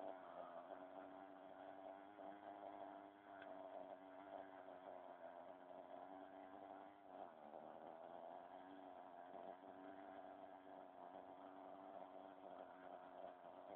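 Radio-controlled model helicopter running, a faint steady drone whose pitch dips and recovers about seven to eight seconds in.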